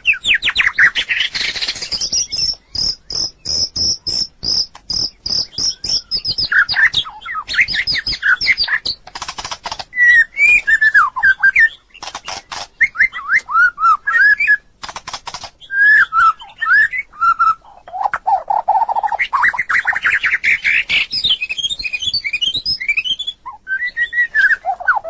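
White-rumped shama singing a loud, varied song: sliding whistled phrases, a fast run of repeated high notes in the first few seconds, dry clicking rattles, and some lower fluty notes later on.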